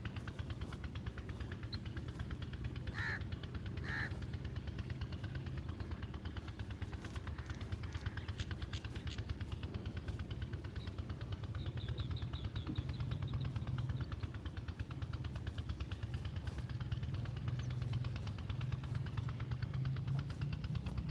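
Two short harsh bird calls, about three and four seconds in, over a steady low rumble that grows a little louder in the second half. There is a quick run of high chirps about twelve seconds in.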